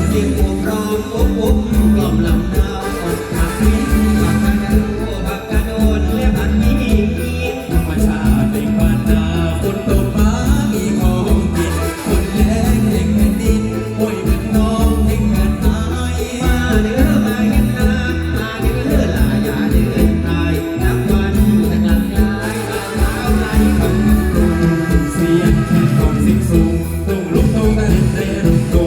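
Live mor lam band music, loud and continuous, with a steady driving beat.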